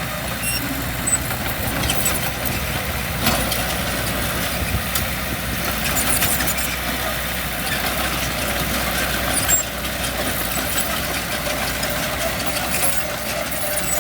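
Heavy diesel construction machinery running steadily at a low rumble, with a couple of sharp metallic knocks, one about three seconds in and one near ten seconds.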